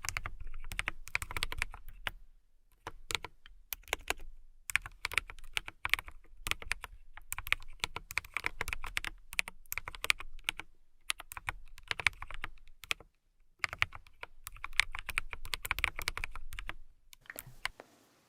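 Fingernails tapping rapidly on a hard surface in quick flurries of clicks with short pauses between them. The tapping stops near the end.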